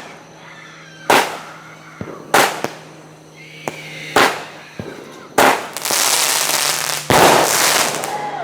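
Consumer 19-shot fireworks cake firing: four loud bangs about a second or so apart with a few fainter pops between, then a long spell of dense crackling near the end.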